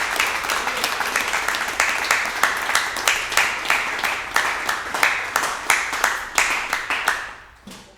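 Small audience applauding, with a few close, sharp claps standing out of the crowd's clapping; the applause thins out and dies away near the end.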